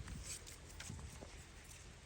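Remote-control toy tractor working in soil: a few faint ticks and scrapes over a low steady hum.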